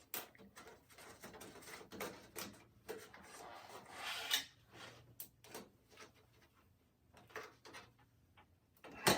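Handling noises of hands-on fitting work: scattered light clicks, taps and rubbing scrapes, a longer scrape about four seconds in and a sharp knock near the end.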